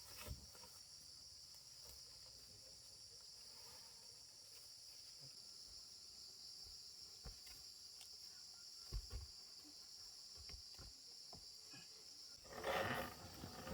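Steady high-pitched insect chorus, with a few faint knocks in the middle and a brief louder noise near the end.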